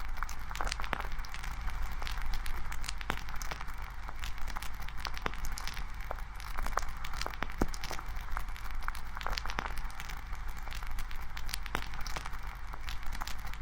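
Wood campfire crackling: frequent, irregular sharp snaps and pops over a steady hiss.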